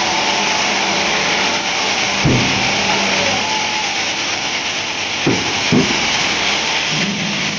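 Fireworks going off: three deep booms over a dense, continuous hiss.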